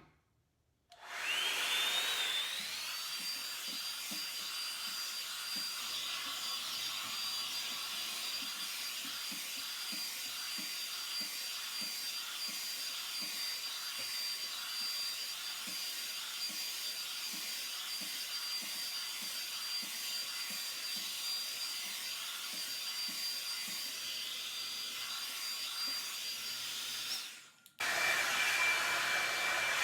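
A Revlon One-Step hair dryer brush switches on and its motor spins up, its whine rising for about two seconds, then runs steadily with a high whine and an airy rush while drying hair. Near the end it cuts off and starts again with a lower whine.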